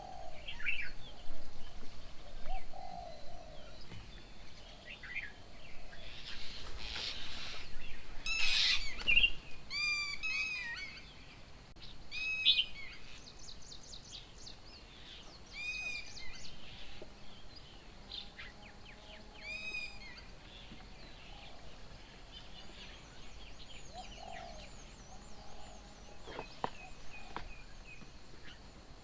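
Several wild birds calling, with short repeated arched chirps and whistles scattered throughout, thickest in a quick run of chirps about nine to eleven seconds in.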